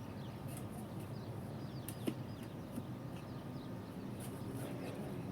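Birds chirping in short calls over a steady low rumble, with scattered sharp ticks.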